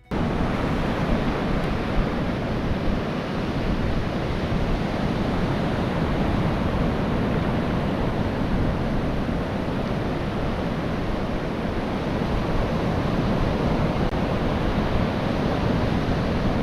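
Gulf of Mexico surf washing on the beach in a steady rush, with wind on the microphone adding a low rumble.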